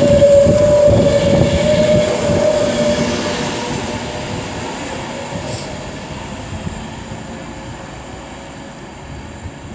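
Class 390 Pendolino electric train pulling out and moving away, its running noise loud at first and fading steadily; a steady whine in the first three seconds dies away with it.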